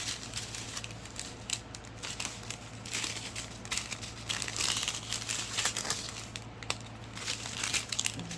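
Thin plastic packaging crinkling and crackling in irregular bursts as it is handled.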